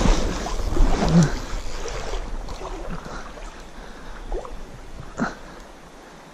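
Wind rumbling on the microphone over the hiss of moving water. The wind eases after about two seconds, and a few small knocks come through.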